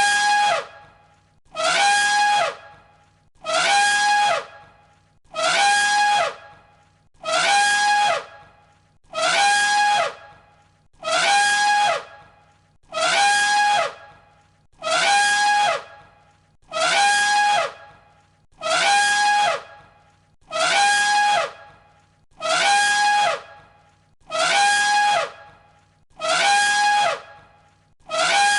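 Elephant trumpeting: the same short, loud trumpet call repeated identically about every 1.7 seconds, each blast holding a steady high note over a downward slide.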